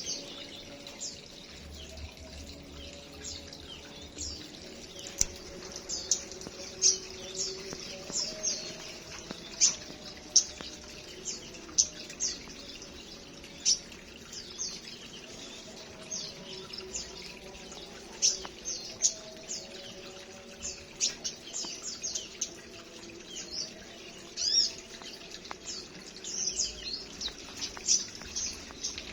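A flock of small aviary birds chirping busily: a steady scatter of short, high chirps, several a second, with softer lower calls underneath.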